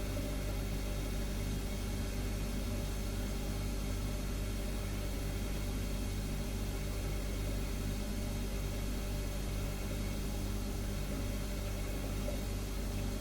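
Refrigerator running with a steady, unchanging low hum and a layer of hiss.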